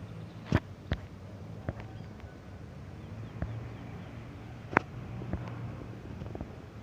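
Steady low rumble of a moving diesel train, with scattered sharp clicks and knocks at irregular intervals.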